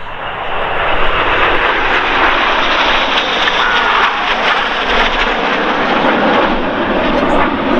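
BAE Hawk T1 jets flying past, their Rolls-Royce Adour turbofan engines loud and building over the first second, then steady.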